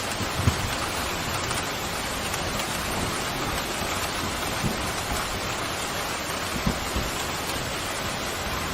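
Steady, even rain hiss, with a few brief low thuds of drops striking a surface now and then.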